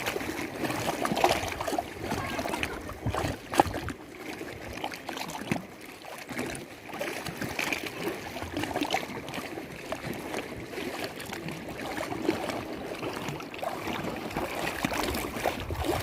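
Lake water lapping and splashing close by: a continuous irregular sloshing with many small slaps of water.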